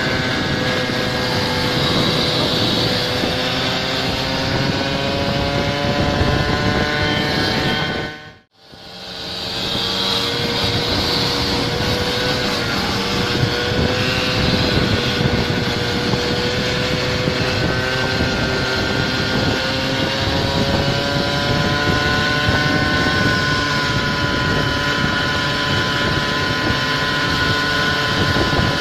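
Small engine of a motorized goped-style scooter running at a steady cruise, its buzzing pitch drifting slowly up and down with the throttle. The sound cuts out abruptly for about a second roughly eight seconds in, then resumes.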